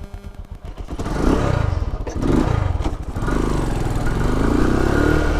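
Lifan KP motorcycle engine idling with an even low putter, then revved a couple of times from about a second in and running on under throttle, its pitch rising and falling.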